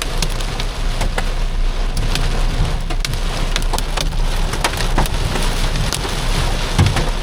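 Heavy rain pelting the roof of a car, heard from inside the cabin: a dense hiss with many sharp individual drop impacts throughout, over a low steady rumble.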